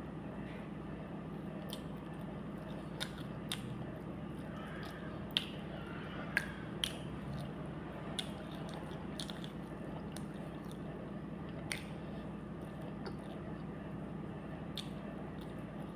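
A person eating: chewing with wet mouth sounds and scattered sharp clicks and smacks, over a steady low hum.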